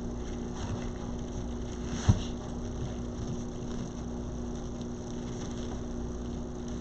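Steady background hum with a faint fixed tone, and one light knock about two seconds in.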